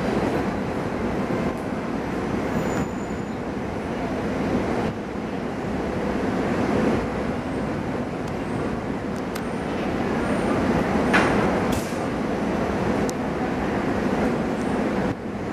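SEPTA wire train with ex-NJDOT GE Arrow II car 601 rolling slowly over the rails: a steady low rumble with a few sharp clicks, loudest about eleven seconds in.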